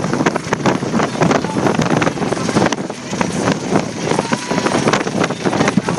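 Helicopter rotor noise mixed with heavy wind buffeting on the microphone.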